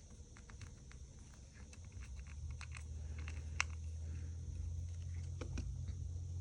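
Scattered light clicks and taps of small tools and parts on an iPhone 5 while the screen is being pried off. A low steady hum comes up about halfway through and continues.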